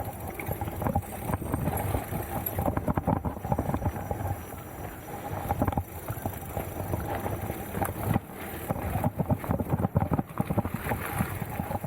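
Mountain bike clattering over a rough, rocky trail: a continuous low rumble of tyres on the ground with rapid, irregular knocks and rattles from the frame and parts.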